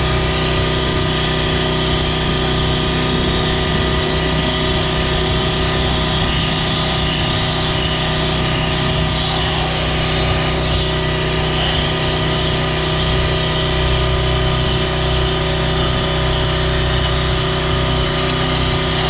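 Gas-engine pressure washer running steadily under load, with the hiss of its high-pressure water and sand stream from a wet sandblasting attachment.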